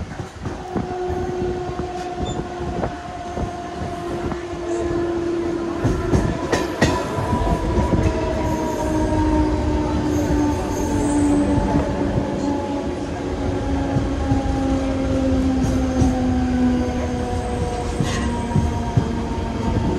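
Mumbai suburban local train heard from on board as it runs along the track: a steady rumble with scattered clicks and knocks from the wheels, and a whine that slowly falls in pitch.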